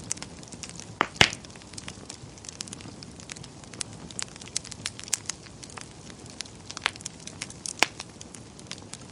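Wood fire burning in a fireplace, crackling and popping irregularly over a soft steady hiss, with a few louder pops about a second in and near the end.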